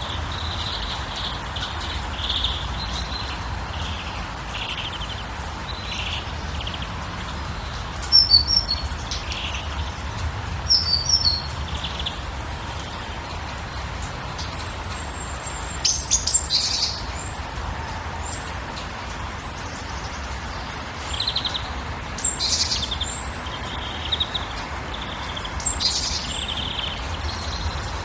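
Birds chirping and calling, with short high chirps throughout and louder bursts of calls several times, over a steady background hiss and low rumble.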